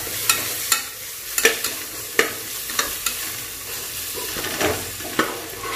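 Sliced onions and ginger-garlic paste sizzling in oil in a pressure cooker as they are sautéed, with a slotted spatula scraping across the pot bottom about once a second.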